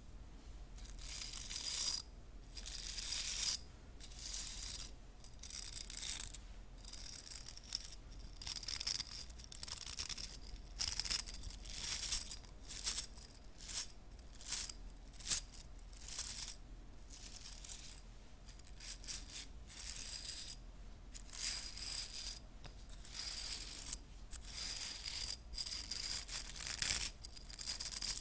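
Hairbrush bristles scratching in repeated strokes: a run of short, scratchy, hissing swishes about one or two a second, with brief gaps between.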